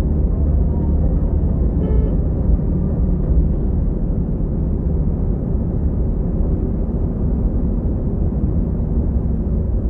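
Bus engine and road noise heard from inside the cabin while the bus is under way: a steady low rumble. A brief higher tone sounds about two seconds in.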